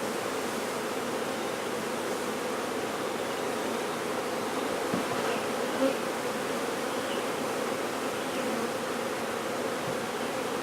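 Steady, dense buzzing of a honey bee swarm, many bees humming together.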